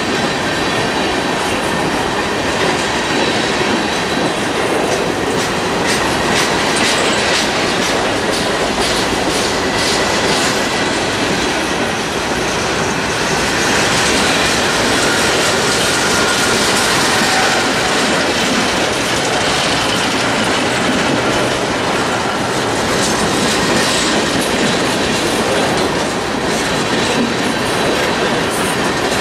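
Freight train of covered hoppers and tank cars rolling past, its steel wheels clattering steadily over the rail, with a faint high steady wheel squeal above the rumble.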